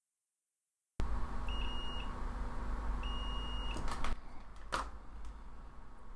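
A steady hum and hiss from bench repair equipment with two short electronic beeps, followed by a few sharp clicks; the hiss drops away about four seconds in.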